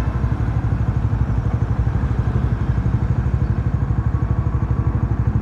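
Bajaj Dominar 400's single-cylinder engine running steadily at low revs, with an even, low pulsing exhaust beat.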